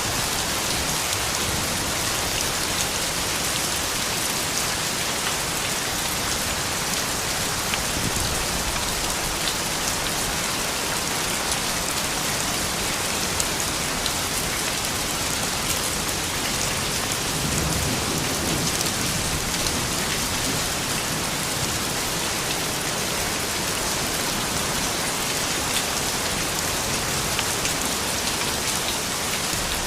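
Steady rain falling on surfaces, an even hiss of drops, with a brief low rumble a little past halfway.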